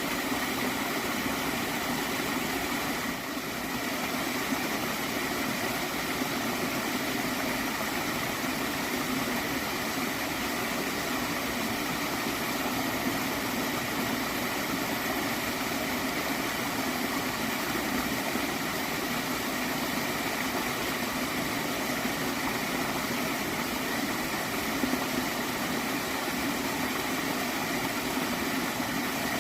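Water stream flowing steadily, a continuous even rush of running water, with a brief dip in level about three seconds in.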